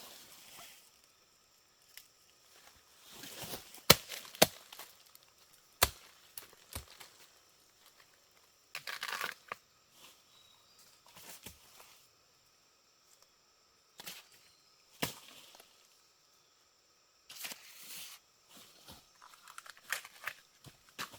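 Scattered sharp knocks and clicks a few seconds apart, with short bursts of rustling and scraping between them.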